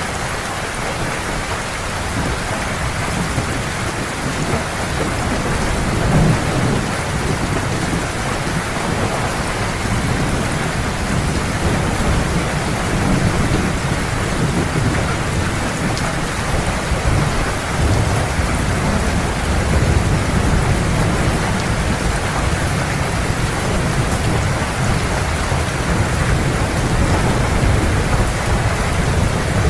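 Heavy rain falling steadily, with thunder rumbling low underneath and swelling now and then.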